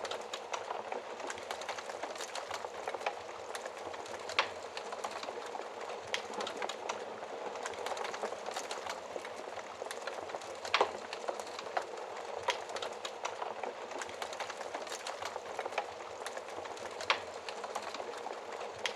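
Wood fire crackling steadily in a fireplace, with a constant hiss of small snaps and a few louder pops scattered through.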